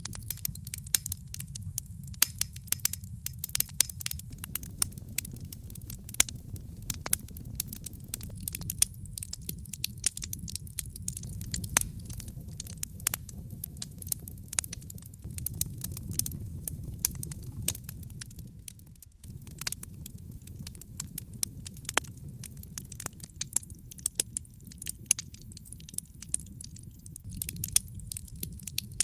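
Wood fire in a fireplace crackling: dense, irregular pops and snaps over a steady low rumble of the flames, which dips for a moment about two-thirds of the way through.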